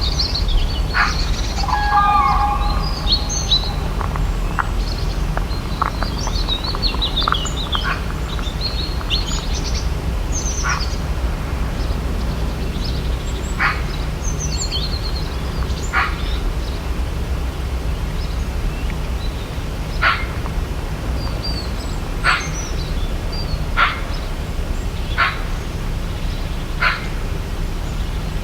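A mixed flock of waterbirds calling at a lakeshore. The first half is thick with quick high chirps; after that, single short calls come every second or two. A steady low rumble runs underneath.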